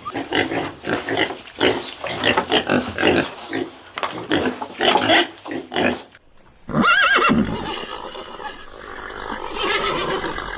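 Farm animals calling: about six seconds of rapid, overlapping calls, then a short rising-and-falling cry.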